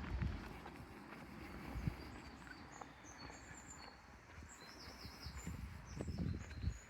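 Small birds chirping, short high notes scattered throughout, over a low rumble with a few soft thumps.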